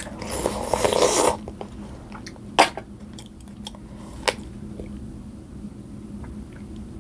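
Close-up eating sounds from a mukbang of mussels and sausage. A crunchy, noisy burst lasts about a second near the start, and two sharp clicks follow later. Quieter chewing runs under it all.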